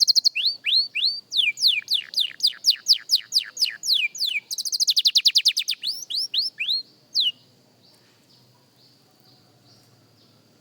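Young canary singing: a rapid run of downward-sliding whistled notes, several a second, broken by two very fast trills, one at the start and one about halfway. The song stops about seven seconds in, leaving only faint, thin notes.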